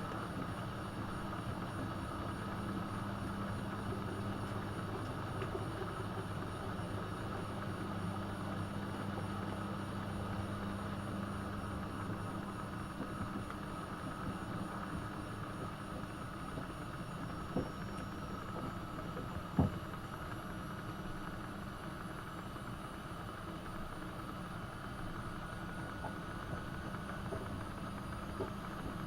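AEG Öko-Lavamat 72520 washing machine running mid-wash: a steady hum with a low drone that drops out about twelve seconds in. Two short clicks follow a little past halfway.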